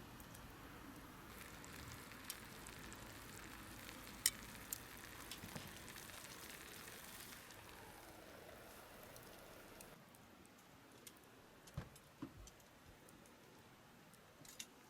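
Faint sizzling of food cooking over a wood campfire, with a few sharp crackles scattered through; the hiss eases off about two-thirds of the way in.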